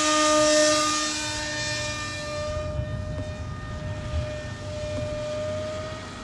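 RC model airplane's motor and propeller running with a steady high whine. It is loudest at first and fades over the next couple of seconds as the plane moves away, and the pitch rises slightly near the end.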